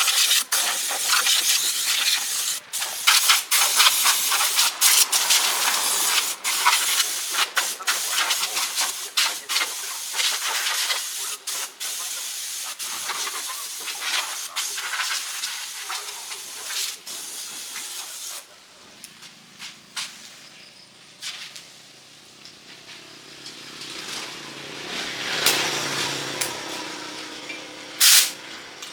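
Loud, steady spraying hiss from a spray tool working on the truck chassis, broken by brief pauses, stopping about two-thirds of the way through. A quieter low hum and a softer hissing swell follow, with a short loud burst near the end.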